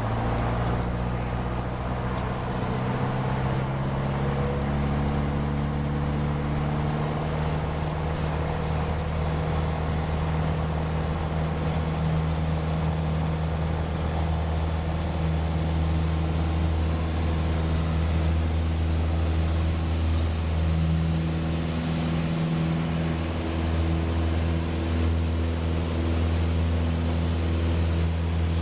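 Light aircraft's piston engine running steadily and loudly, its pitch stepping up right at the start and then holding.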